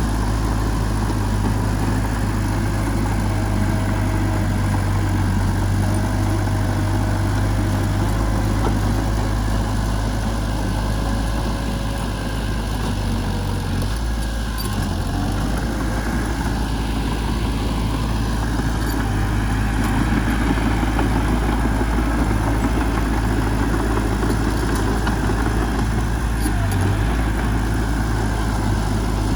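Heavy diesel engine of a working machine running steadily with a constant low rumble, easing slightly around the middle.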